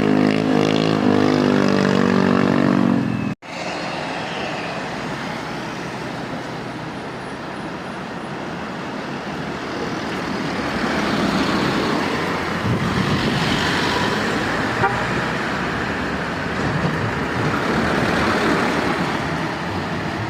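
A loud pitched horn sounds, its pitch shifting in steps, and cuts off abruptly about three seconds in. Then comes steady road traffic noise from trucks passing, swelling and easing twice.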